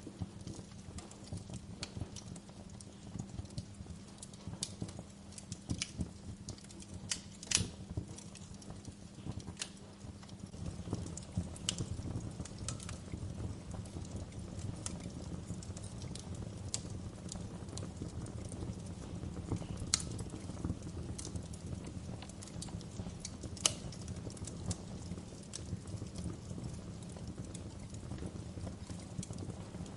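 Wood fire in a fireplace crackling steadily over a low rumble of flame, with irregular sharp pops. The loudest pops come about a third of the way in and twice in the second half.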